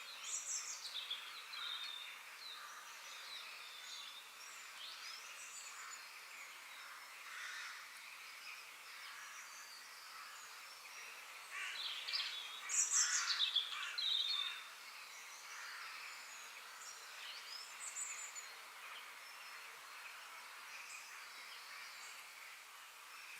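Forest ambience of several birds chirping and calling over a faint steady hiss, with a louder flurry of calls about halfway through.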